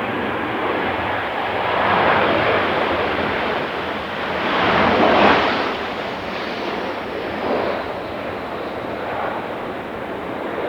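Boeing 737-800 jet engines heard during landing, a loud rushing noise with gusty wind on the microphone. The noise swells about two seconds in and again, loudest, about five seconds in.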